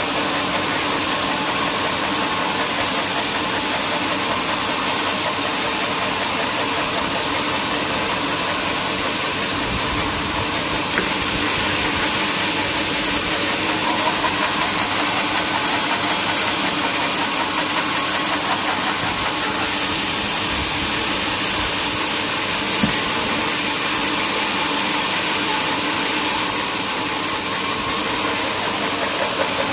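Sawmill machinery running steadily: a constant mechanical drone with a strong hiss, without pauses or sharp impacts.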